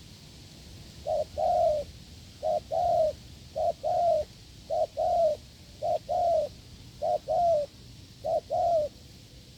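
Spotted dove cooing in a series of seven two-part coos, each a short note followed by a longer one, about one every 1.2 seconds, starting about a second in.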